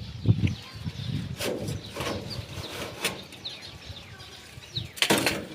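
Knocks and clatter of the DC air room cooler's casing being handled and opened, with zebra finches chirping faintly in the background.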